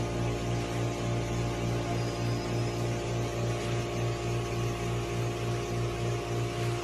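A steady machine-like hum made of several fixed tones, the lowest one pulsing evenly about three to four times a second.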